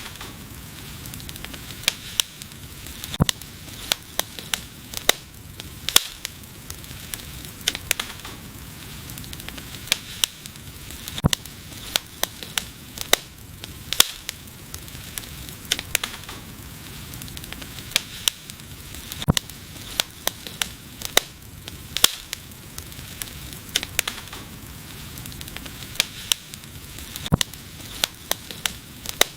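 Wood fire burning, crackling with irregular sharp pops, a few a second, over a steady low hiss.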